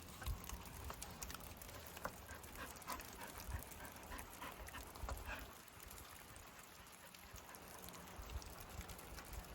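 Faint footsteps and small clicks of hikers and dogs moving along a trail, over a soft steady hiss of a waterfall in the distance.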